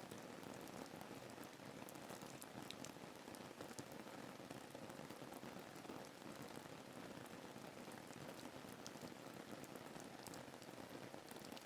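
Soft, steady rain falling, with faint scattered drop ticks.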